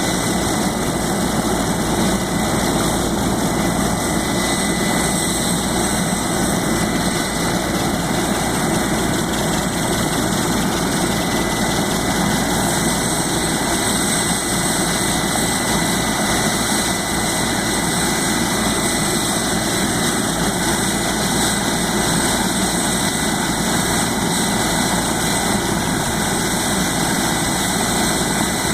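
Helicopter engine and rotor running steadily, a constant high whine over a broad rumble.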